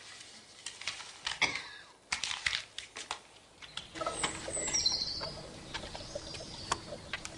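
Scattered sharp clicks and knocks, then from about four seconds in birds chirping in short, falling calls over a faint steady hum.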